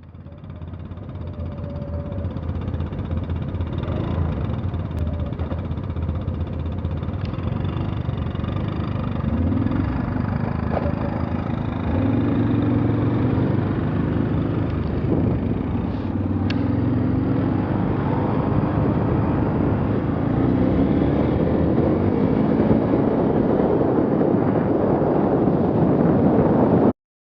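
A motor vehicle's engine running, its pitch rising and falling again and again as it revs up and settles. It fades in at the start and cuts off abruptly near the end.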